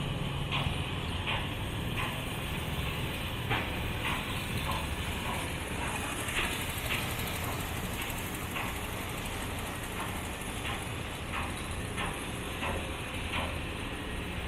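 Working-port ambience: a steady low rumble of machinery and traffic with irregular clicks and knocks scattered through it, about one or two a second.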